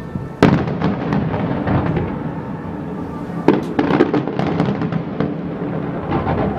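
Aerial fireworks shells bursting: a loud bang about half a second in, then a cluster of bangs and crackling about three and a half seconds in, and more bursts near the end, over a steady background rumble.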